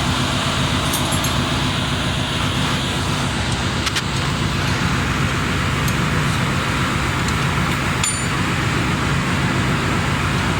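Engine-room machinery running with a loud, steady drone, with a few faint metallic clinks about a second, four seconds and eight seconds in.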